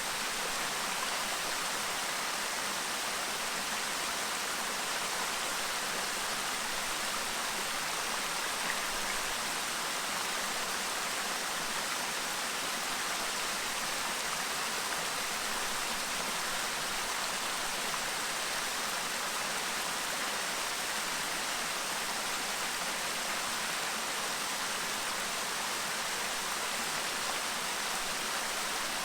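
Clear stream babbling over rocks, a steady even rush of running water.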